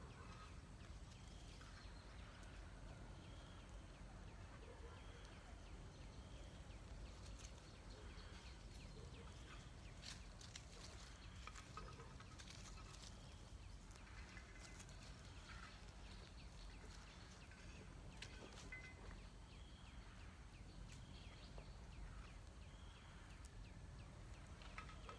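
Faint, scattered short bird calls and a few clicks over a steady low rumble, near silence overall.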